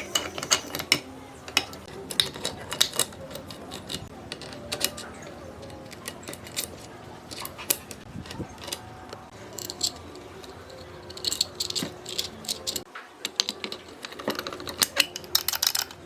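Irregular sharp clicks and rattles of small hard objects being handled, in clusters near the start, around the middle and near the end.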